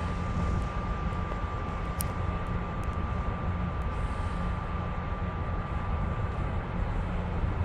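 Steady rumble of a moving train car heard from inside, with a thin high whine that stops about six and a half seconds in and a single sharp click about two seconds in.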